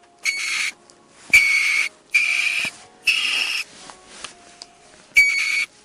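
A ferret giving five short hissing cries of about half a second each, the fourth after a longer gap near the end.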